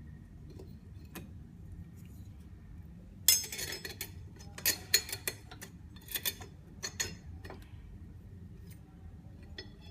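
Metal clutch plates of a Hydramatic automatic gearbox clinking against each other as they are handled and stacked. A few light ticks come first, then a run of sharp clinks from about three to eight seconds in.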